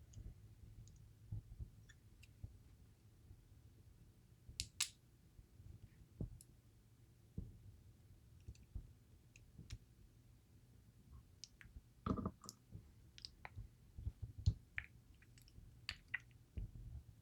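Irregular small clicks and metal taps from tools and pins working in a DOM IX Twinstar lock's housing as its driver pins are removed, with a few louder clicks near the middle and toward the end.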